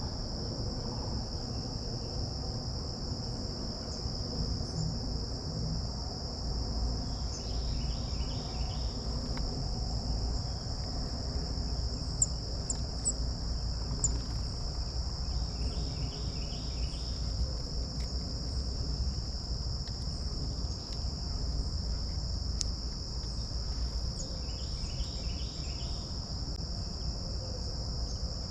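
Steady, unbroken high-pitched trilling of crickets or similar insects, over a low rumble. A short cluster of notes repeats about every eight seconds, and a few faint high chips come near the middle.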